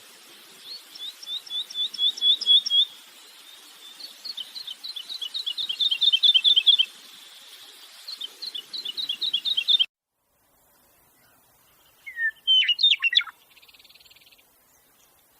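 A songbird singing three phrases, each a trill of rapidly repeated high notes that speeds up and grows louder over two to three seconds. The sound cuts off abruptly just under two-thirds in, and a few short chirps follow near the end.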